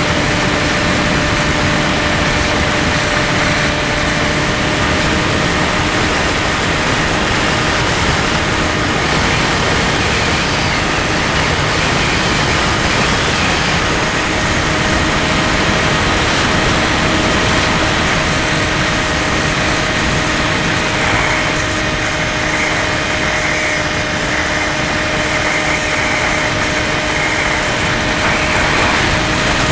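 Skywalker 1680 RC plane's electric motor and propeller running steadily with an even whine of several tones, over a loud, steady rushing noise.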